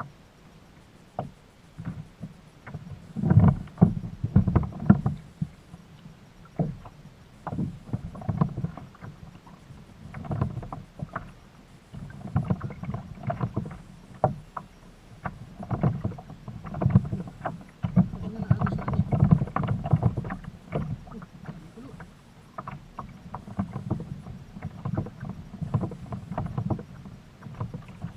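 Water slapping and sloshing against a fishing kayak's hull, with irregular knocks and splashes that come in uneven clusters.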